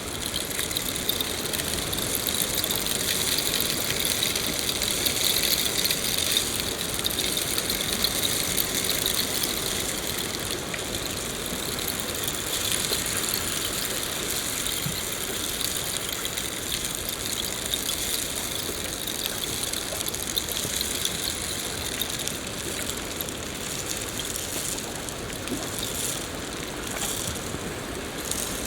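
Steady rain falling, a dense continuous patter of drops with a hissing, crackly texture.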